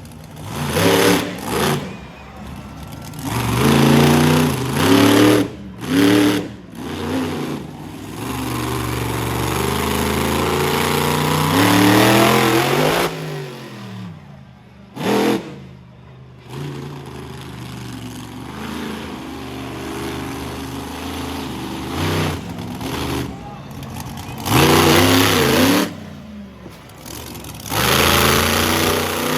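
Monster truck engine revving hard in repeated bursts, its pitch climbing and dropping again and again, with a brief lull about halfway through.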